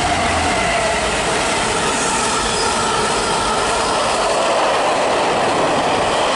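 Freight train passing at speed: a steady, loud rush of wagon wheels on the rails, with a few faint ringing tones above it.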